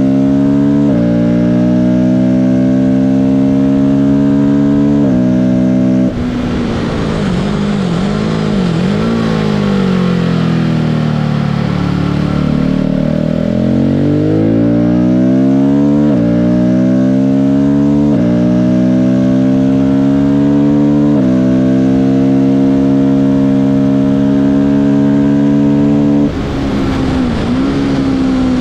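Race-track car engine pulling hard through the gears: the revs climb and fall sharply at each upshift. In the middle the revs drop and waver lower as the car slows for a corner, then it accelerates up through the gears again and lifts off once more near the end.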